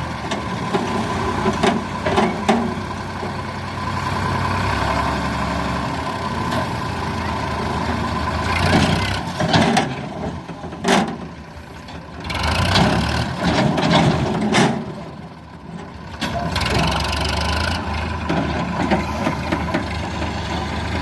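Tractor engine running, its level rising and falling, with several louder noisy stretches about halfway through and two short dips.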